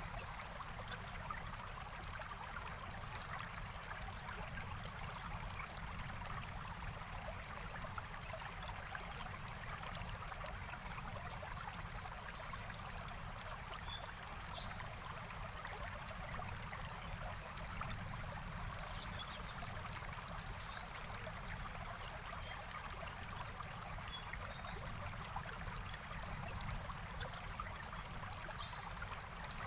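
Forest stream flowing steadily, with a few faint bird chirps now and then.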